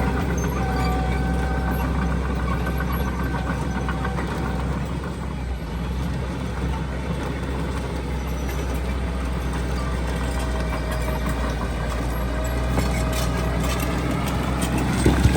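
Heavy diesel earthmoving machinery running steadily: a deep, even engine drone with a faint high whine over it. Near the end it gets louder, with metallic clanking.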